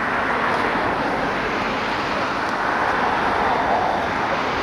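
Steady rushing vehicle noise with no clear pitch, swelling slightly about three seconds in.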